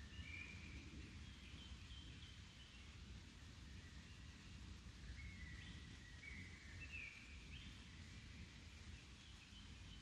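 Faint birdsong: short whistled notes in several brief phrases, over a low, steady background rumble.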